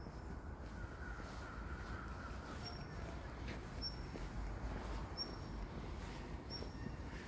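A bird calling with short, high notes, repeated about once a second, over a steady low background rumble.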